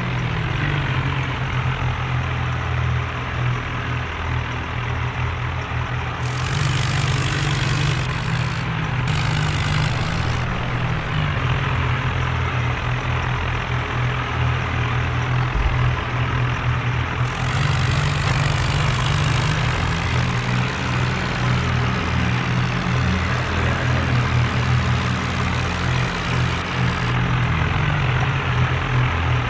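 Tractor engine running steadily with a low, even drone. A brighter rushing hiss joins for a few seconds about six seconds in, and again for a longer stretch from a little past halfway.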